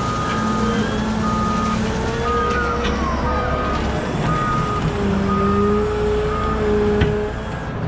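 A wheel loader's reversing alarm beeping about once a second over its steady diesel engine, which is working at shifting revs. The beeps stop near the end, and there is a short falling whine about three seconds in.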